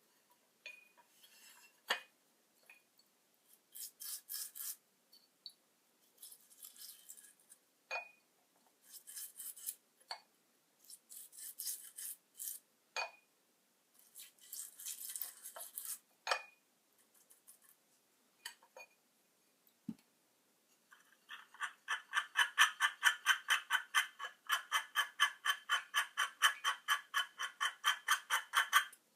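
Hand scraping and rubbing: scattered short scraping strokes with a few clicks, then, about two-thirds of the way in, a run of rapid back-and-forth scrubbing strokes that is the loudest part and stops abruptly at the end.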